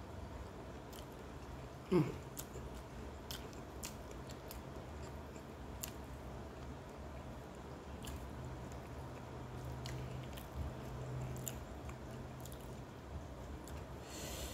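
Close chewing and small wet mouth and finger clicks of a person eating rice and side dishes by hand, with a short voiced 'mm' about two seconds in.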